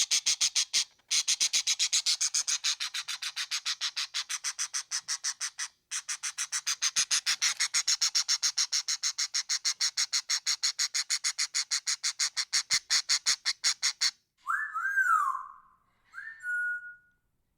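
A tropical bird giving a long, fast rattling series of sharp high notes, about nine a second, broken twice. Near the end it gives two short whistled calls that slide up and down in pitch, the second ending on a held note.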